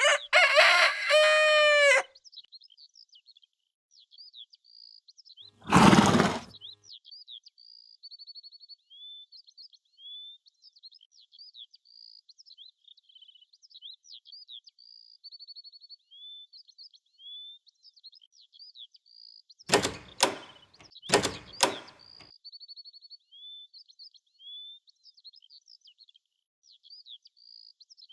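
Small birds chirping continuously, high-pitched. In the first two seconds there is a loud pitched call whose tones bend in pitch. About six seconds in comes a heavy thump, and around twenty seconds in there are four sharp knocks.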